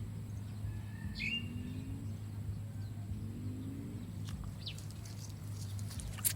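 A bird chirping briefly twice, once about a second in and again near the end, over a steady low hum of rural background noise.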